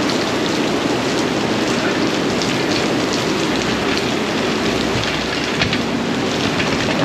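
Heavy rain falling steadily: a dense, even hiss with faint taps of individual drops hitting surfaces.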